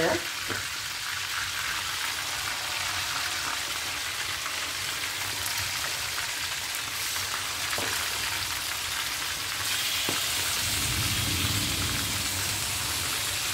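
Chicken pieces frying in hot oil in a wok, a steady crackling sizzle that grows a little louder about ten seconds in.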